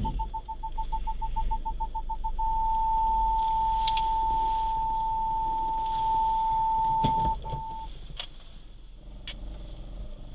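Tata Altroz's reverse parking sensor chime: rapid single-pitch beeps that merge into one continuous tone held for about five seconds, which means the obstacle behind is very close. The tone stops, sounds once more briefly, and a few light clicks follow over the low hum of the idling car.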